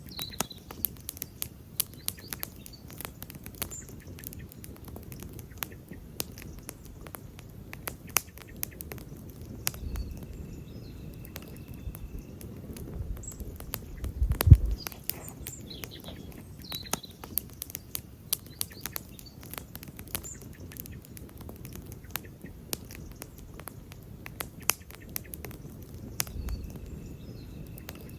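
Wood campfire crackling, with many sharp snaps and pops, while birds chirp now and then. About halfway through comes a single low thump, the loudest sound, and a thin steady high whistle sounds twice for a couple of seconds.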